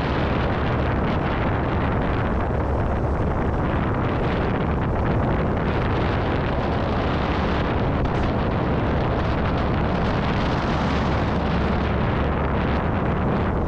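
Light single-engine airplane's engine and propeller running, a steady loud drone.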